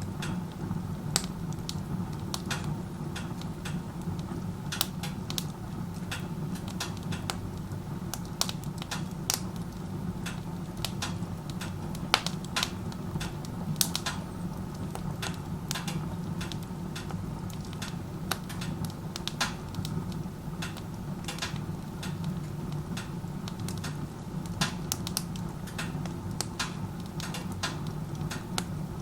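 Wood fire burning in a wood stove run open like a fireplace: logs crackling with irregular sharp pops over a steady low rumble of a strong chimney draft pulling air through the open door.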